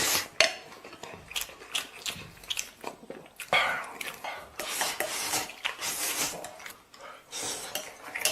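Close-up eating sounds: irregular scraping and clicking of utensils against the pot and bowl, with chewing.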